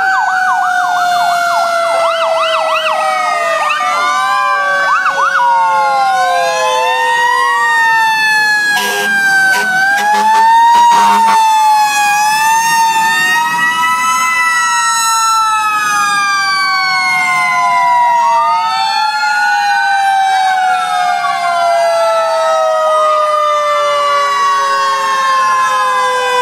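Several fire truck sirens sounding at once: quick up-and-down yelps at first, overlapping rising and falling wails, and one long tone that falls slowly throughout. A few short, sharp blasts cut through about nine and eleven seconds in.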